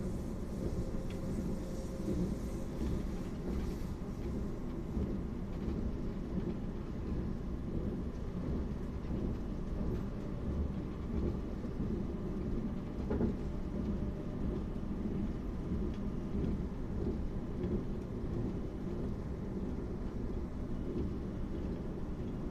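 Steady low rumble inside a suburban train carriage.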